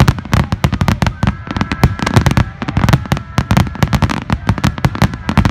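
Grand-finale fireworks barrage: shells bursting in a dense, unbroken run of loud bangs, several a second and overlapping.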